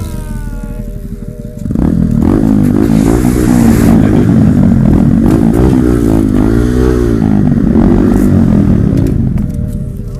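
Honda Grom mini motorcycle engine revving up and down again and again, loud. It comes in suddenly about two seconds in and fades near the end.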